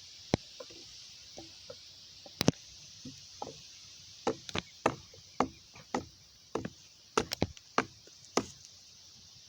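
A blade chopping at a wooden stick to sharpen it into a spear point: about a dozen sharp, separate strikes on the wood, sparse at first, then about two a second from about four seconds in.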